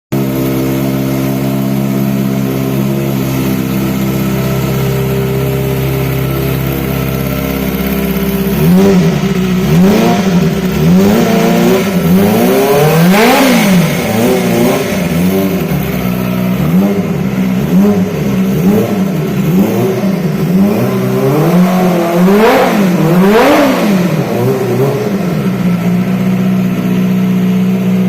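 Kawasaki Ninja ZX-25R's 250 cc inline-four idling through its exhaust, then revved over and over in quick blips, two of them pitched much higher, before settling back to idle near the end.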